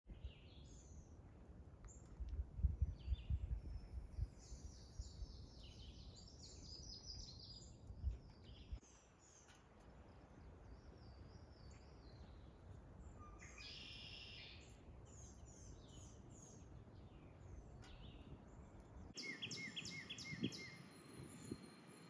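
Several songbirds chirping and calling, with a low rumble and a few louder thumps through the first half. Near the end one bird repeats a short call about five times in quick succession.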